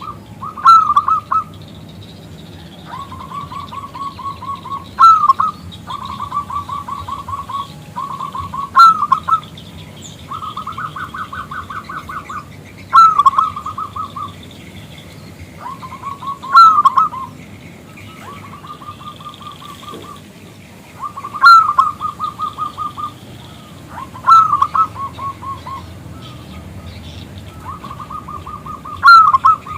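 Zebra dove (perkutut) cooing over and over, a loud song about every four seconds: each a sharp opening note followed by a quick run of staccato coos, with fainter runs of coos in between.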